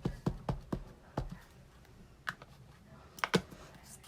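Light tapping of a rubber stamp on an acrylic block against an ink pad, as it is inked: five quick taps in the first second or so, then a few sharper clicks further apart, including a close pair near the end.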